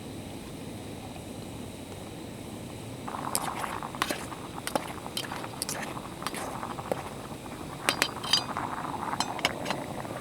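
Small hard objects being handled, likely camp kitchen gear: a run of sharp clinks and clicks begins about three seconds in over a steady low hiss.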